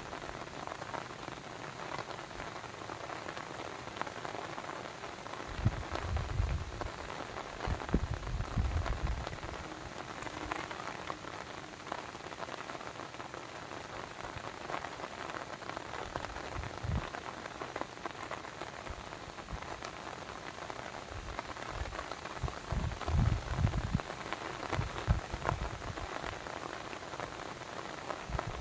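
Steady rain pattering, with many fine drop ticks and a few brief low thuds spread through it.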